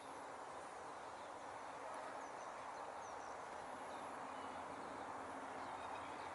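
Faint outdoor ambience: a steady rushing with a few faint, short, high bird chirps about two to three seconds in.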